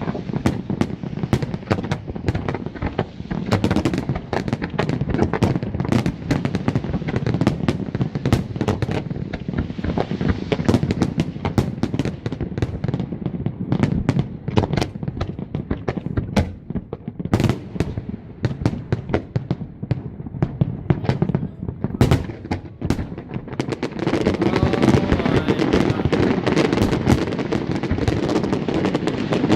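Fireworks display: a rapid, continuous barrage of bangs and crackles, growing denser and louder about 24 seconds in.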